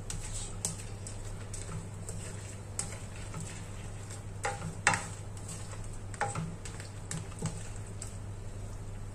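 Prawns cooking in a buttery tomato sauce in a pan, crackling with scattered small ticks over a steady low hum. A metal utensil clinks against the pan a few times, the loudest about four and a half to five seconds in and again at about six seconds.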